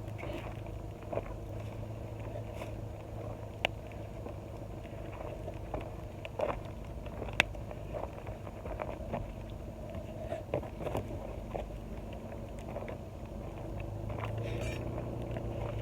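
Wood campfire crackling, with scattered sharp pops every second or so over a steady low hum.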